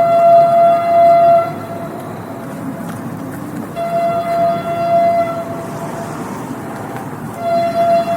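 Train horn sounding three blasts, one steady pitch each: two long ones about a second and a half each, then a short one near the end, over the continuous rumble of the moving train.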